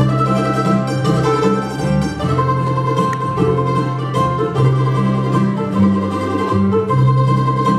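Old-time string band playing a tune: mandolin and guitar picking and fiddle over an upright bass stepping from note to note.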